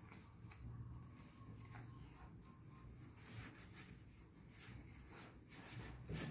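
Near silence: room tone with a faint low hum and a few soft clicks.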